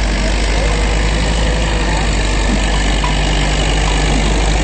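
Tractor engine running loud and steady, with a deep low rumble.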